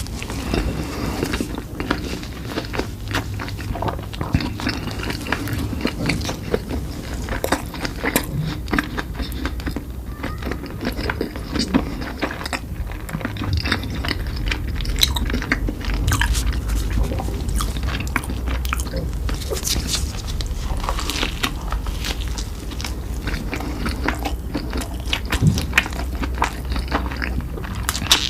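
Close-miked eating: biting and chewing with many irregular crunchy clicks, over a steady low hum.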